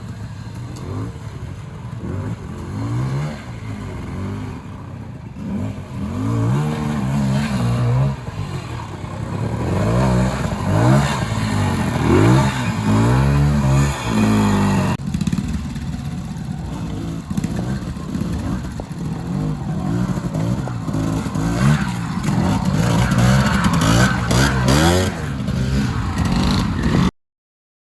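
Trials motorcycle engine revving up and down in repeated short bursts of throttle, its pitch rising and falling again and again. The sound cuts off abruptly near the end.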